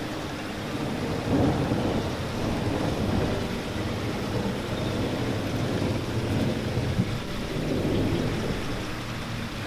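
Steady rain falling, a dense rushing noise with most of its weight in a deep low rumble that swells a little about a second in and eases again.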